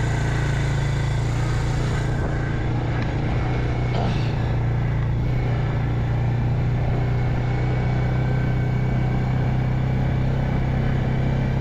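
ATV engine running steadily at an even pitch while driving in four-wheel drive over soft, wet ground.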